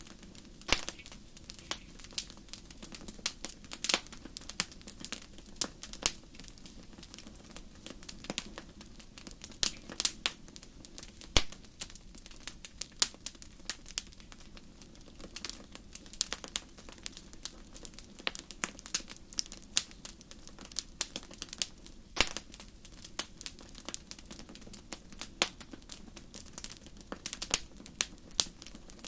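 Wood campfire crackling, with irregular sharp pops, several a second and now and then a louder single snap, over a low steady rush.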